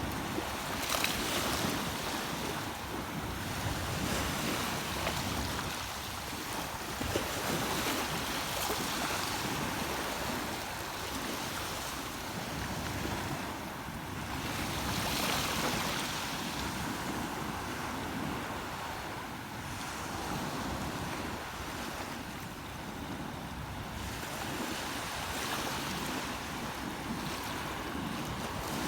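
Rushing water, a steady noise that swells and eases every few seconds, with wind buffeting the microphone.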